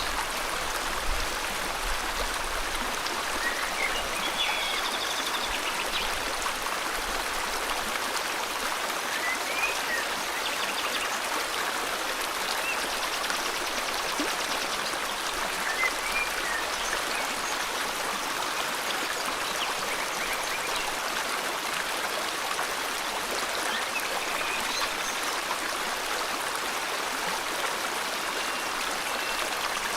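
River water flowing steadily, with birds giving short rising chirps and brief trills every few seconds over it.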